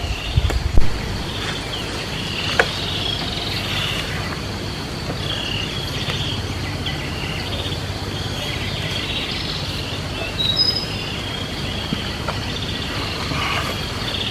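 Outdoor country ambience: a steady high insect drone with repeated short chirps from insects or birds, over a low rumble. A sharp knock just under a second in is the loudest sound, and a smaller one follows about two and a half seconds in.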